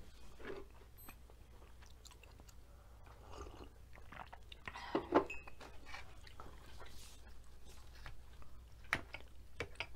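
Faint close-miked chewing and mouth sounds of a person eating, with a sip from a mug about halfway through. Near the end, a metal fork clicks against a glass bowl.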